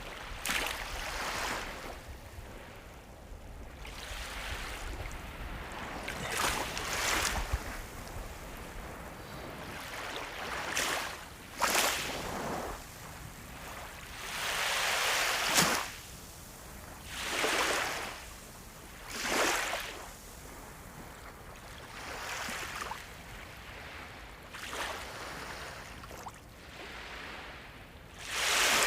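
Sea waves breaking, in repeated rushes of surf every couple of seconds that swell and fall away, a few of them sharper and louder than the rest.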